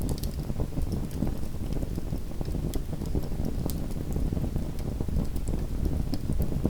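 Small wood fire in a fireplace crackling: a steady low rumble of flames with frequent scattered sharp pops and snaps.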